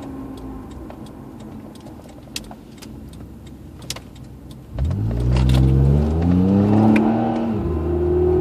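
Acura RL under way: road and cabin noise with a few light clicks, then about five seconds in a louder whine sets in and rises in pitch as the car picks up speed, settling on a steady higher tone near the end. The whine is the sign of a failing rear differential.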